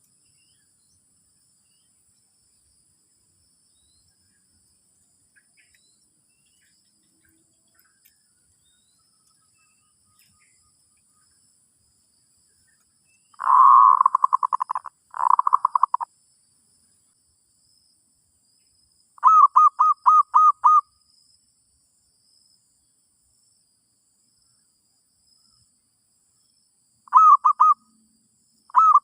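Zebra dove (merbok) cooing: short phrases of rapid, staccato coo notes, two close together about halfway through and more near the end, with long silent gaps between.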